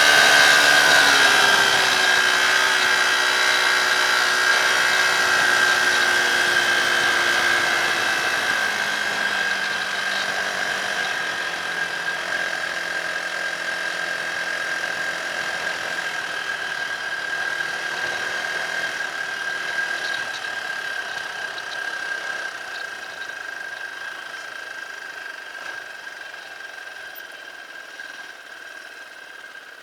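Dirt bike engine running, its sound fading gradually and its pitch slowly dropping.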